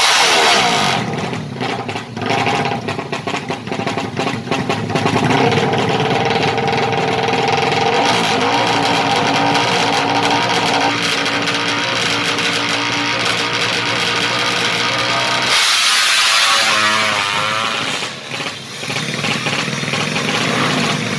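Yamaha MX King motorcycle engine, fuel-injected and bored up to 200cc, running through an HO2 Racing exhaust at a steady engine speed. About fifteen seconds in the sound turns suddenly rougher and noisier with a wavering pitch, dips briefly, then settles back to a steady run.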